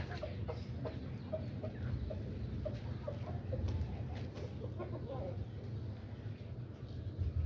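A chicken clucking: short, separate low notes repeated a few times a second, over a steady low rumble.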